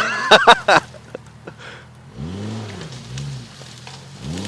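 Jeep engine revving up and down, its pitch rising and falling three times from about two seconds in. It follows a few loud, short bursts in the first second.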